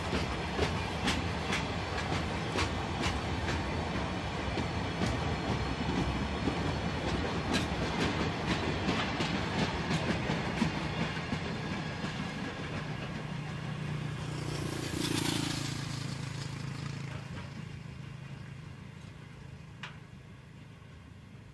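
Open freight wagons rolling slowly past, their wheels clicking irregularly over rail joints above a steady rumble. A short hiss comes about fifteen seconds in, and the sound grows quieter over the last few seconds.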